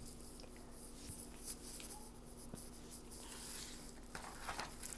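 Faint rustling and scratchy handling noise with a few light taps, over a steady low hum.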